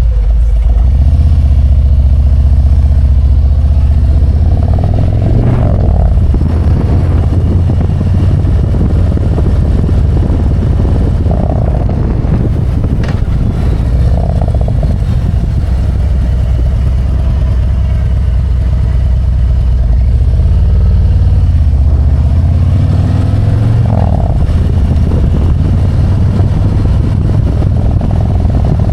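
Harley-Davidson Road Glide's V-twin engine running under way, loud and steady, its note rising and changing a few times as the throttle and gears change.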